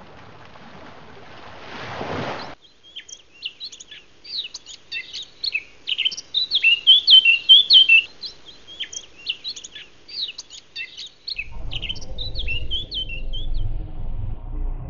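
Songbirds chirping, many quick high chirps and short trills. Before them, a rising hiss cuts off suddenly about two and a half seconds in. A low rumble begins near the end.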